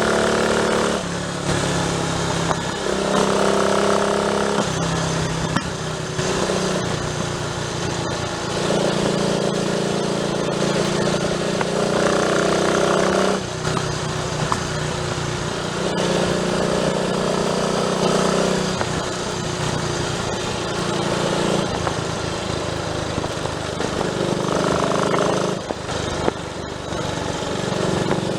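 Triumph Tiger Cub's single-cylinder four-stroke engine running under way on the road. Its note climbs and drops in steps every few seconds, as the revs change.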